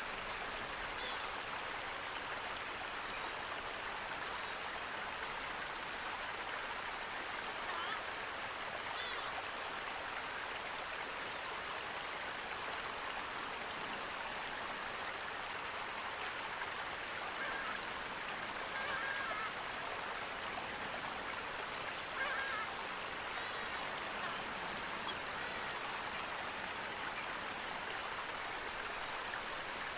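Steady rush of running water, with a few short, faint bird calls over it now and then.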